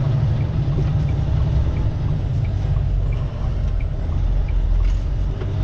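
Semi truck's engine and road noise heard from inside the cab while driving: a steady low rumble.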